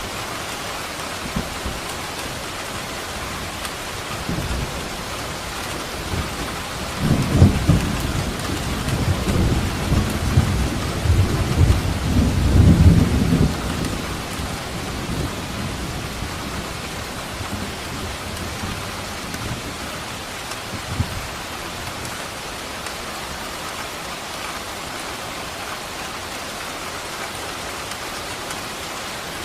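Steady rain hissing, with a rolling rumble of thunder that builds about seven seconds in and dies away after about seven seconds.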